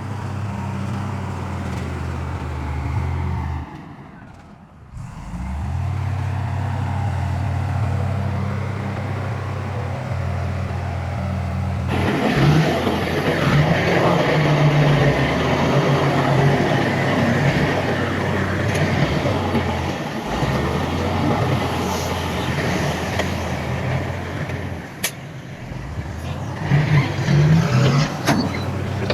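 Heavy diesel engine of earthmoving machinery running steadily. About twelve seconds in, a louder rough, noisy sound joins it and carries on, and a few sharp clanks come near the end.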